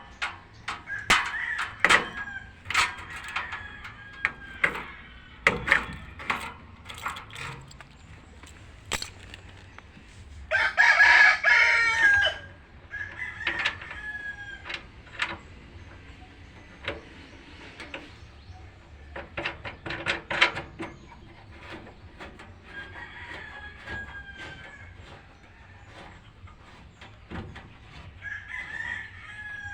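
A rooster crows once, loudly, about ten seconds in, with chickens clucking on and off around it. Sharp clicks and knocks are scattered throughout.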